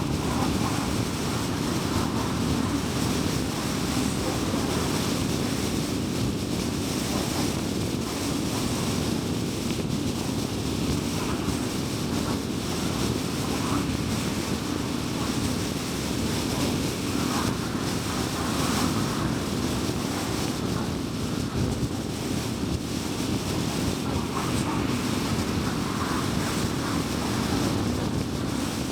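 A car cruising at highway speed: steady road, tyre and engine noise, with no distinct events.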